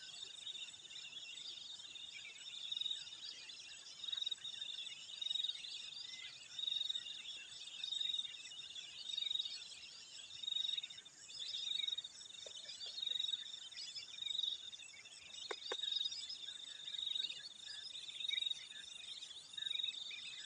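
Chorus of insects in a rice paddy: a steady high-pitched trill that swells in level about once a second, over dense background chirping, with a couple of faint clicks partway through.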